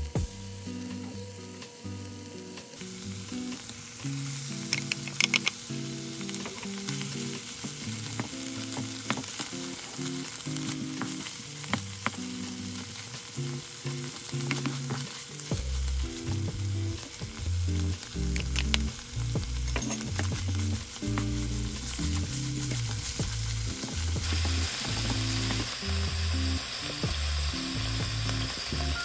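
Canned tuna, garlic and sliced green onion sizzling in oil in a nonstick wok, with a wooden spatula stirring and knocking against the pan. The sizzle picks up about three seconds in, and the heat has been turned up for stir-frying.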